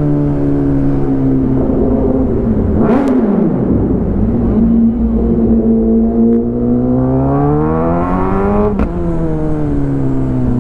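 Kawasaki ZX10R inline-four engine through an Arrow full-system exhaust, riding. The revs dip and recover about three seconds in, then climb steadily under acceleration and drop sharply near the end at an upshift.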